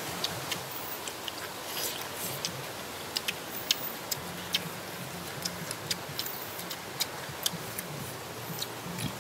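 People chewing duck meat with mouth smacks: irregular sharp, wet clicks, several louder than the rest, over a steady hiss.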